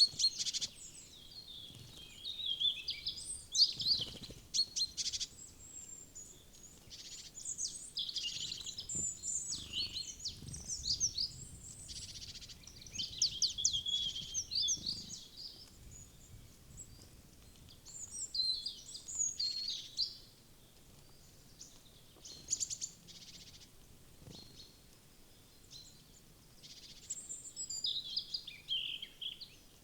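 Small wild songbirds at a forest feeder chirping and calling in quick, high twittering clusters with short pauses between them, with a few soft knocks.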